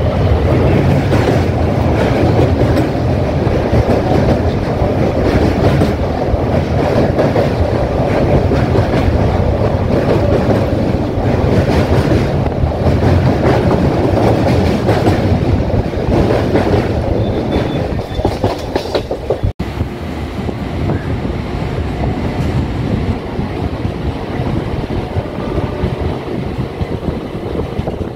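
Local passenger train running along the track, heard from on board: a steady rumble with wheels clattering over the rail joints. The sound drops out for an instant about two-thirds of the way through, then runs on a little quieter.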